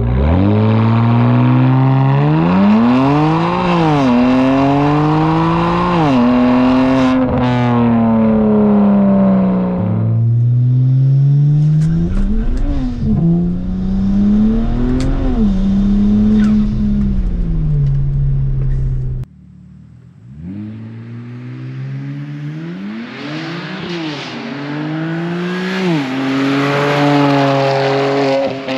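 Twin-turbo inline-six of a 2009 BMW 335xi, with catless downpipes and the muffler deleted, accelerating hard: the revs climb, drop at each gear shift and climb again, with a raspy edge at high revs. Three separate runs follow one another with abrupt cuts between them.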